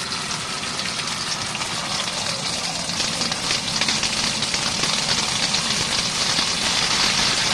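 Hot water running hard from the laundry-sink tap into the empty tub of a portable RV washing machine: a steady spraying hiss that gets a little louder about three seconds in. The pressure is turned up higher than it should be.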